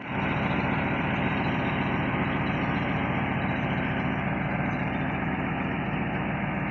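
1958 Chevrolet Impala's 348 big-block V8 with Tri-Power carburettors idling steadily.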